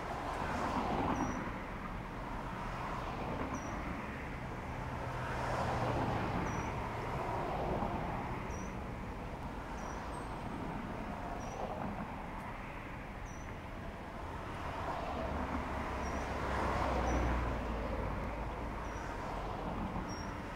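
Road traffic: cars passing, the noise swelling and fading every few seconds, with a bird giving a short high chirp about once a second.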